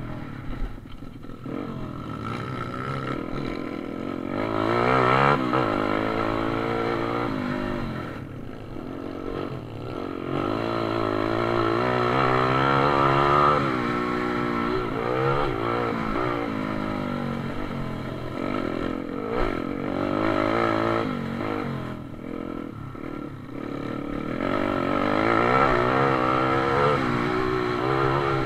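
Pit bike engine revving hard, its pitch climbing and dropping over and over as the rider accelerates and backs off through the corners.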